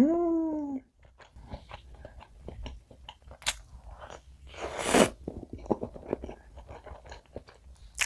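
Close-miked eating of a soft chocolate castella cake dipped in whipped cream. It opens with a brief hummed "mm". A soft bite about five seconds in is the loudest sound, followed by scattered wet chewing and mouth clicks.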